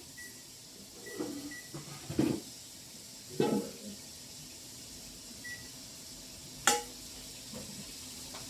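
A few short single-pitch electronic beeps from a kitchen timer being set, among knocks and clinks of a bowl and ice being handled; the sharpest, ringing clink comes near the end.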